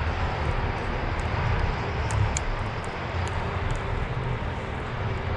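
Steady low rumble with a hiss of outdoor background noise, and a few faint ticks near the middle.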